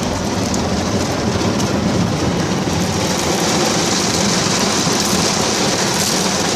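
Automatic car wash running over the car, heard from inside the cabin: a steady, loud wash of water spray and machinery against the body, growing hissier about halfway through. It's pretty noisy.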